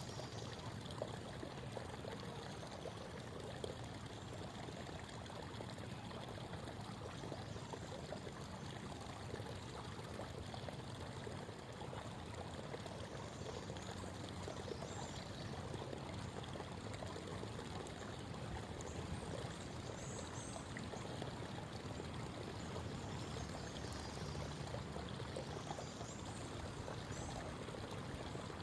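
Creek water babbling and trickling steadily over stones, with a few faint, brief high bird chirps now and then.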